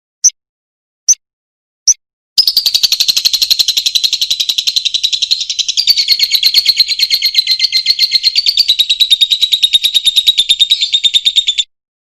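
Lovebird giving three short, sharp chirps, then a long, rapid chattering trill (the 'ngekek panjang' song) that lasts about nine seconds and stops abruptly.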